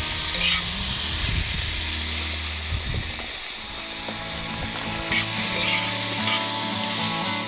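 Butter and diced bacon sizzling in a hot steel Fire Disc pan with Brussels sprouts, stirred around with a utensil, with a few light scrapes. Soft guitar music comes in under it over the second half.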